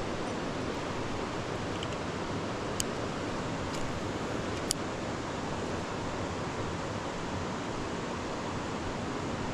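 Steady rush of creek water. Three short sharp clicks sound around the middle.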